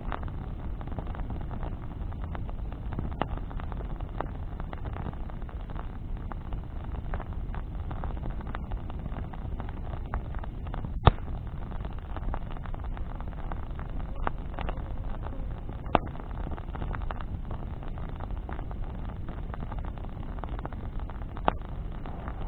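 Bonfire of burning branches crackling over a steady low rumble, with three sharp, loud pops about halfway through, a little later, and near the end.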